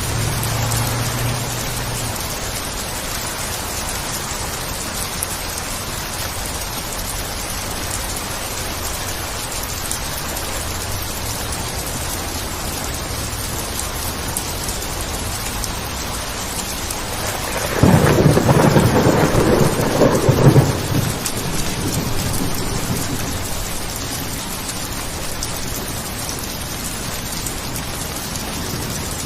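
Steady, heavy rain with a low thunder rumble dying away at the start; about 18 seconds in, a close thunderclap cracks and rumbles loudly for about three seconds before the rain carries on alone.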